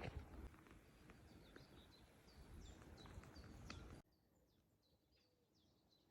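Faint small birds chirping, with a low rumble under them that cuts off abruptly about four seconds in.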